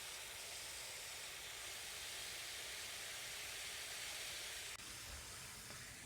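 Running water pouring into a small tub with a steady hiss, which stops suddenly near the end with a faint click.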